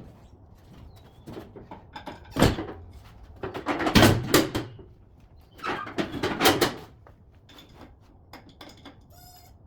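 Knocks and scraping in three loud clusters, about two and a half, four and six seconds in, with scattered lighter clicks between.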